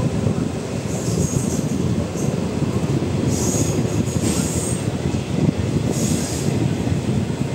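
Passenger train coach rolling slowly along a station platform: a steady rumble of wheels on the rails, with high-pitched bursts of wheel squeal about a second in, around the middle and near the end.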